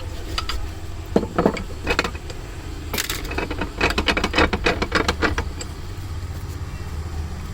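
A series of light clicks and taps over a steady low hum, a few at first, then a quick run of them in the middle.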